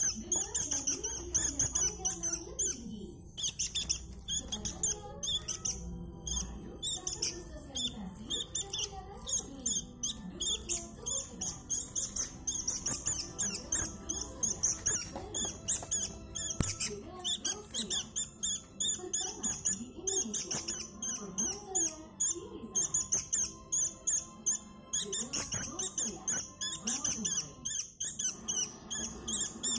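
Sooty-headed bulbuls (kutilang) giving rapid, high-pitched squeaky chirps without a break, with lower wavering tones underneath.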